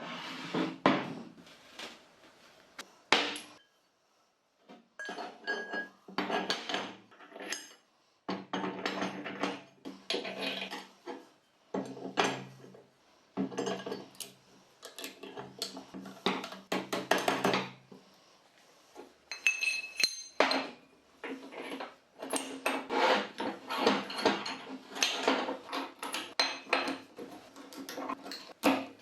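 Metal parts and tools being handled in a workshop, clinking and clattering in short irregular bursts with brief pauses between them.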